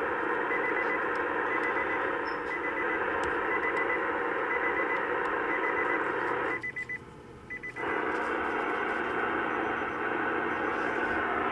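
Car stereo radio static playing through the 2013 Nissan Leaf's newly replaced driver's front door speaker during a sound test with the balance set fully left: a steady hiss that cuts out briefly about seven seconds in, then returns. The speaker is working again.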